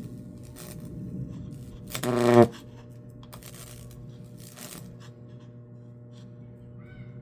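High-voltage microwave oven transformer humming steadily with faint crackling as the current burns a Lichtenberg figure into wood. About two seconds in, a loud electrical arc buzzes for about half a second.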